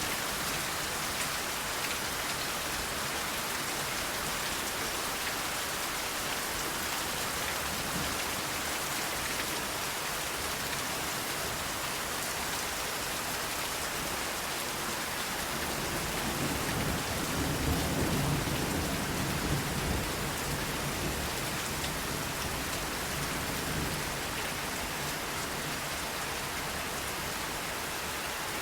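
Steady rain, with a low roll of thunder rumbling up a little past halfway and dying away over several seconds.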